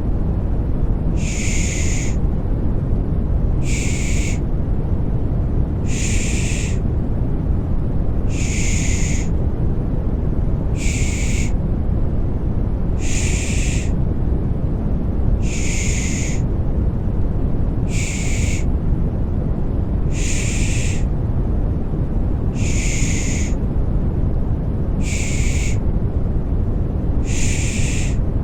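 Rhythmic 'shh' shushing to soothe a baby, one short hiss about every two and a half seconds, over a steady low rumble of white noise like the sound heard in the womb.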